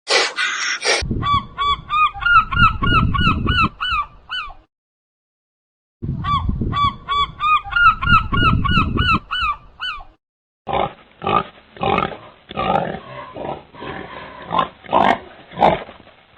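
An animal gives rapid runs of short pitched calls, about four a second, each rising and falling. It does this twice, with a pause of over a second between the runs. About two-thirds of the way in, a different animal takes over with an irregular series of short, rough sounds.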